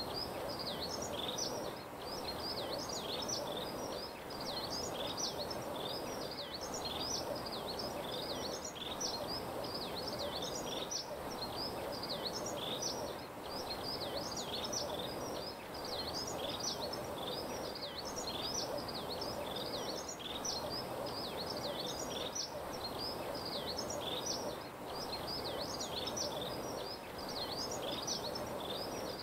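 Dense chirping of many small birds over a steady background hiss. The chirping pattern dips and repeats about every two seconds.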